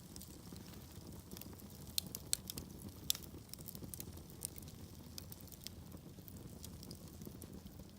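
Wood logs burning in a fireplace: a steady low rush of flames with scattered sharp crackles and pops, the loudest few coming two to three seconds in.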